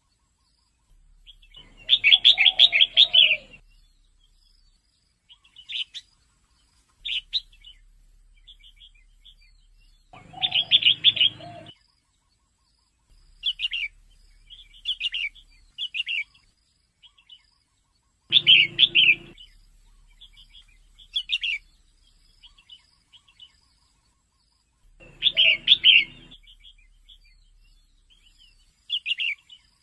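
Female red-whiskered bulbul calling: short, scattered chirps, broken about every seven to eight seconds by a louder burst of chattering, four bursts in all.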